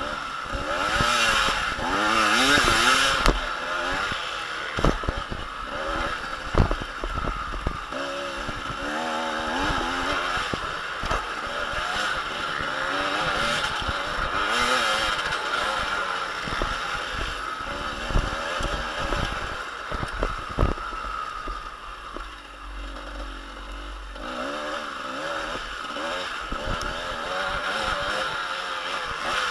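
Motocross bike engines revving, their pitch rising and falling again and again, with scattered sharp knocks and thumps.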